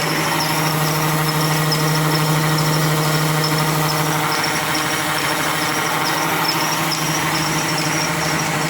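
Small motor of a DIY miniature tractor flour-mill model running steadily, a low hum with a high, wavering whine on top.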